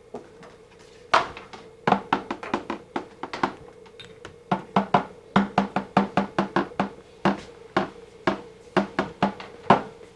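A run of sharp knocks or taps in uneven clusters, often two to four a second, over a steady hum.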